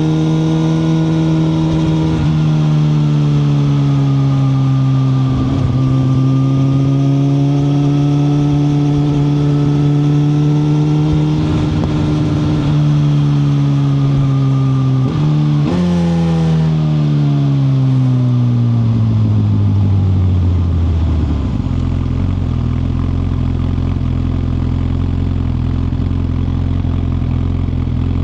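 2021 Suzuki GSX-R1000R's inline-four engine running at a fairly steady pitch while riding. About halfway through comes a quick rev blip, then the revs fall steadily as the bike slows. The last third is a low, steady idle.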